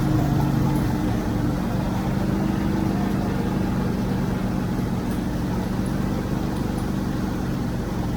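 Tractor engine running steadily at a constant speed, a low even drone with no change in pitch.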